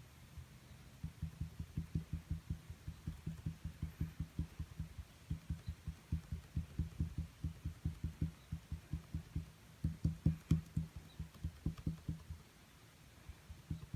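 Paint being dabbed onto a small stretched canvas: a rapid series of low, dull taps, about five or six a second, with short pauses near the start and near the end.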